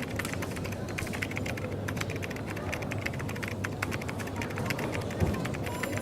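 Keyboard typing: rapid, irregular key clicks over a steady low café background hum.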